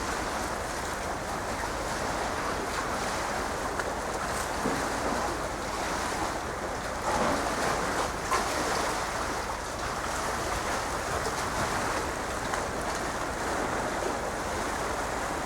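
Steady rushing noise of wind and waves, swelling a little about seven seconds in.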